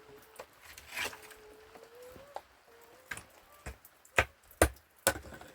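A few sharp knocks, the loudest three close together about four to five seconds in, over a faint steady tone that rises slowly in pitch.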